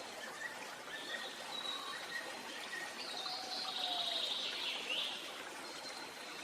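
Several wild birds calling and singing over a steady background hiss, with short whistled phrases at different pitches. The loudest phrase comes about halfway through, a high trill that drops at its end.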